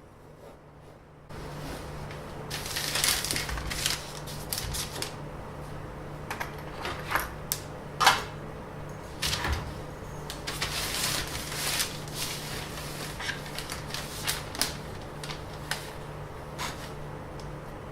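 Handling noise: irregular rustles, light clicks and scrapes at close range, over a steady low hum that comes in about a second in.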